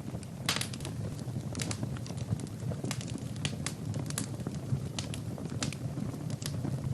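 Wood fire burning in a fireplace: logs crackling with frequent irregular sharp pops over a steady low rumble of flame.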